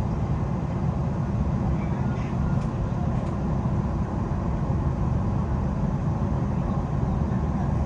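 Queensland Rail New Generation Rollingstock (NGR) electric train running at speed between stations, heard from inside the passenger carriage: a steady low rumble from the wheels and running gear.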